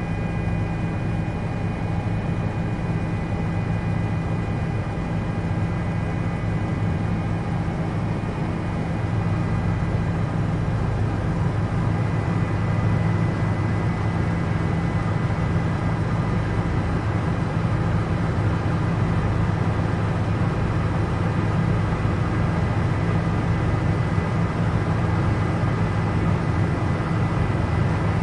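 Toy remote-control helicopter's electric motors and rotors running steadily: a continuous hum with thin high whining tones over it.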